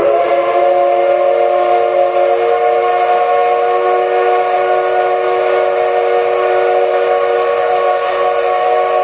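Steam whistle of the SL Paleo Express steam locomotive, C58 363, blowing one long, steady blast for about nine seconds: a chord of several notes sounding together, with a little steam hiss beneath.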